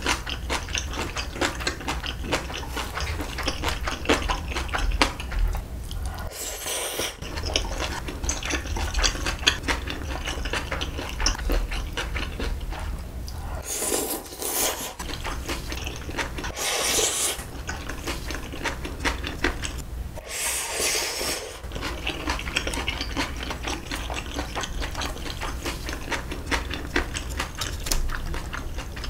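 Close-up eating sounds: wet chewing and mouth clicks from someone eating spicy braised beef short ribs and japchae glass noodles, with chopsticks tapping the dishes. A few short, louder breathy bursts break in, one about halfway through as noodles go into the mouth.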